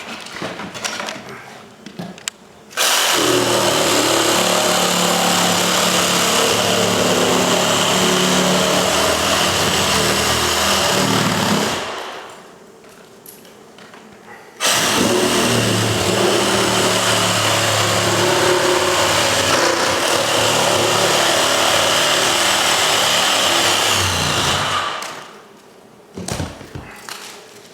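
Electric power tool run twice, about nine and ten seconds each: a steady, loud motor noise that starts abruptly and winds down each time it is switched off.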